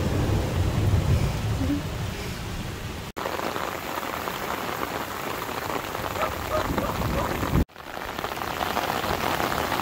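Heavy downpour: a steady rush of rain, cutting out for an instant twice, about three and about eight seconds in.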